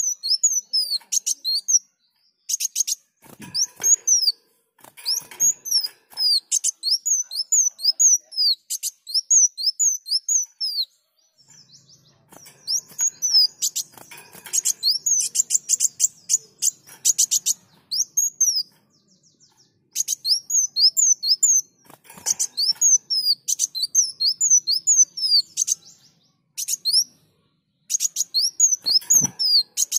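Kolibri wulung sunbird singing vigorously: rapid runs of high, thin, downward-sweeping notes in bursts of a second or two, with short pauses between them.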